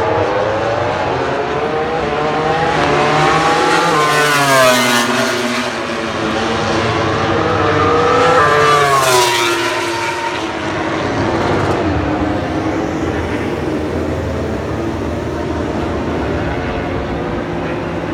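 MotoGP race motorcycles accelerating past on track, engine pitch climbing through the revs to two loud peaks about four and a half and nine seconds in, then dropping away to a distant drone.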